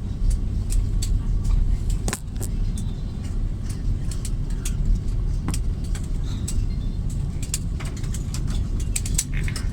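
Airliner cabin noise after touchdown: a steady low rumble of the aircraft rolling along the runway or taxiway, with frequent sharp clicks and rattles from cabin fittings.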